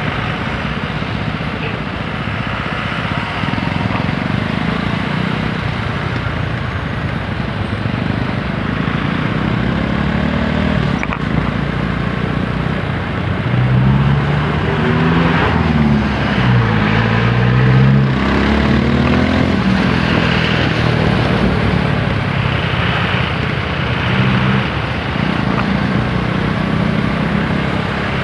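TVS Apache RTR 160 4V single-cylinder motorcycle engine running under way, with steady road and wind noise. Around the middle the engine note climbs, drops and climbs again several times as the rider accelerates through the gears.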